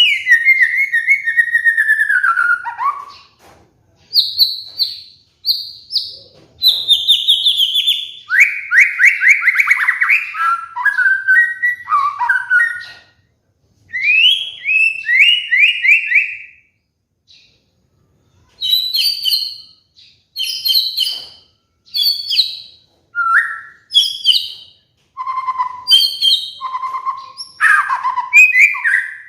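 White-rumped shama singing a varied, loud song: a long falling whistle at the start, then phrases of rapid repeated notes and trills, and in the second half short separate whistled phrases about a second apart.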